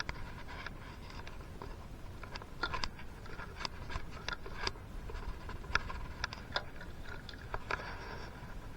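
Irregular light clicks and taps of small metal engine parts and hand tools being handled, about fifteen in all, with a quick cluster of several about three seconds in.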